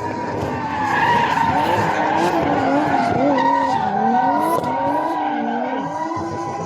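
Drift car skidding with its tyres screeching, the engine revving up and down, loudest from about a second in.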